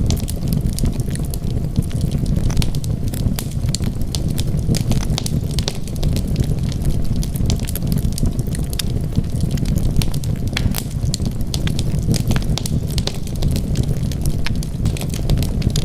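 Wood fire burning in a fireplace: a steady low rumble of flames with frequent, irregular sharp crackles and pops of the burning wood.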